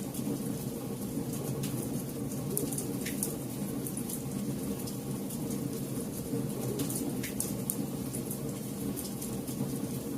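Campfire burning: a steady low rumble of flames with frequent small crackles and snaps, two sharper pops about three and seven seconds in.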